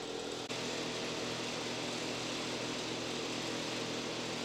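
Steady ambient hum and hiss with a faint constant tone, with no distinct events.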